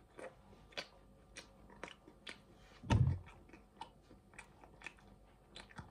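Quiet chewing of a mouthful of pizza: soft, irregular wet mouth clicks a few tenths of a second apart, with one louder thump about three seconds in.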